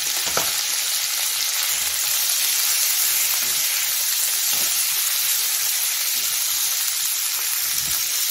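Cauliflower florets sizzling steadily in hot oil in a non-stick pan, with a few soft knocks as a silicone spatula stirs them through.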